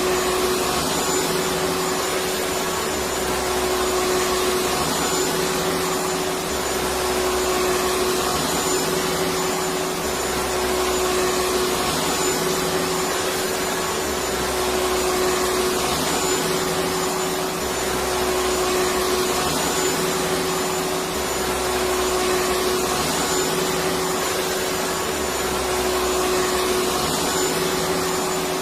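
Electric vacuum cleaner running steadily: a dense whooshing motor noise with a steady hum. A low rumble comes and goes about every two and a half seconds.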